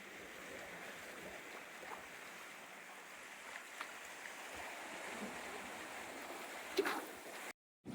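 Small waves washing steadily onto a lake beach, a soft even rush of water.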